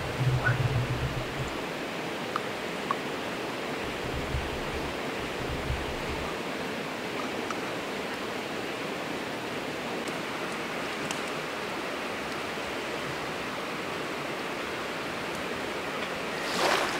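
A steady, even rushing noise with a few faint ticks.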